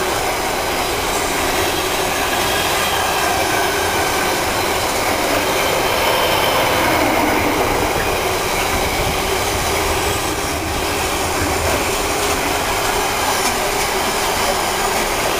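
Wagons of a Freightliner freight train hauled by a Class 66 rolling past, a steady, unbroken noise of wheels on rail.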